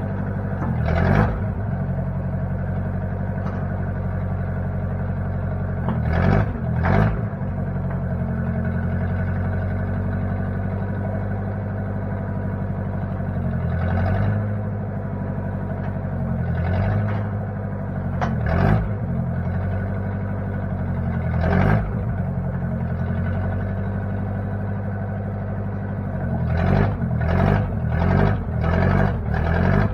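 A 1960 Case backhoe's engine running steadily, its speed dipping briefly now and then as if under load, with scattered clanks and knocks, several in quick succession near the end.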